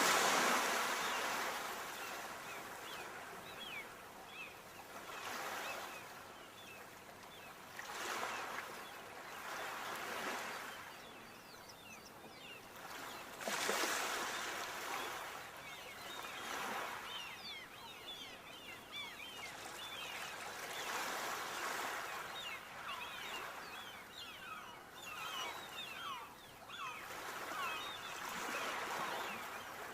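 Sea waves breaking and washing onto the shore, the surf swelling and ebbing every few seconds. The largest surges come at the start and about thirteen seconds in.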